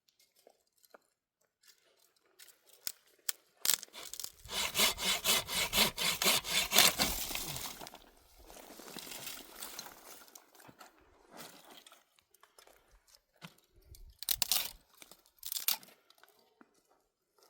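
Firewood being cut by hand: a run of quick, even strokes on wood, about three or four a second, for roughly four seconds. Quieter scraping and scattered sharp snaps of wood follow.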